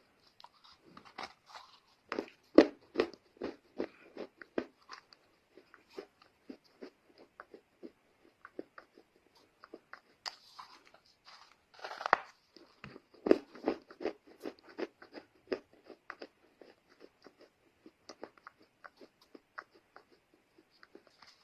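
Lumps of dry Chinese loess (clay soil) being crunched close to the microphone: two runs of quick, sharp crunches, a few seconds in and again around the middle, with scattered lighter crackles between.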